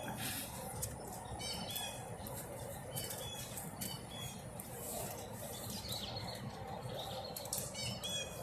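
Birds chirping, short high calls repeating every second or so, over a steady low background hum.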